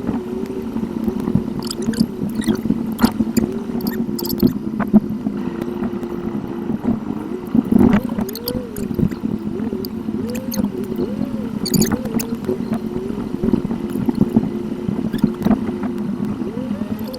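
Car engine and road noise heard inside the cabin, sped up eight times, so the engine note rises and falls quickly and repeatedly over a steady drone, with scattered short clicks.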